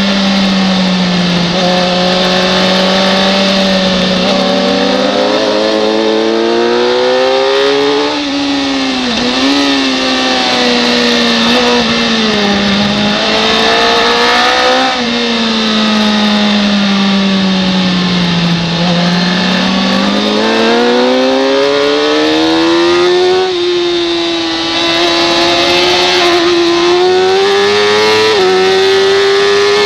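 Racing motorcycle engine at high revs, its pitch sinking under braking and climbing again under acceleration several times, with a few quick gear-change steps near the end. A steady rush of wind noise runs underneath.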